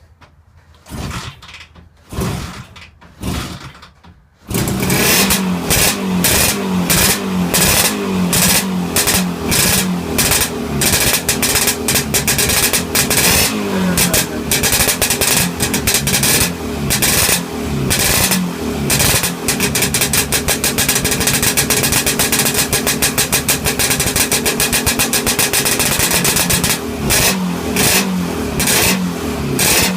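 1959 Cotton Herald's Villiers two-stroke single fires in three brief bursts, then catches about four seconds in and keeps running with a rapid popping beat, the revs rising and falling. This is its first start in over 30 years after an engine rebuild.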